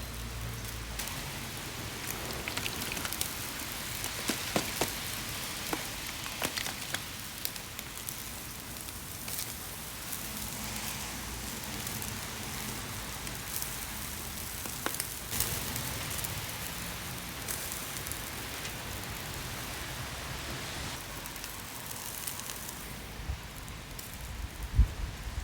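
Wood fire crackling: a steady hiss with scattered sharp pops and snaps, a few louder ones about four to five seconds in and again around the middle.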